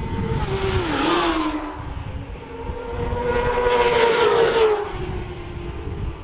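Racing motorcycles passing at speed on track, twice: a quick pass about a second in with the engine note dropping in pitch, then a louder, longer pass between about three and five seconds that fades away.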